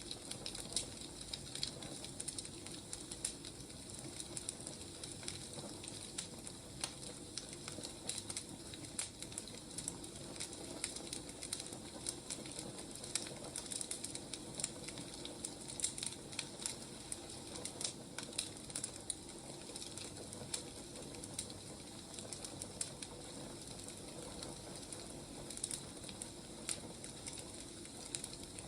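Wood fire burning, with irregular sharp crackles and pops over a steady soft hiss.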